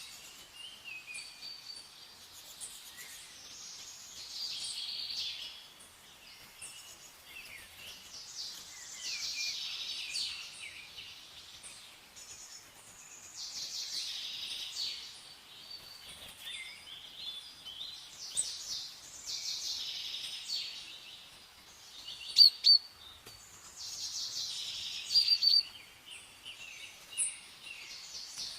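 Songbirds singing, several quick chirping phrases coming every few seconds, with a few sharp, loud chirps near the end.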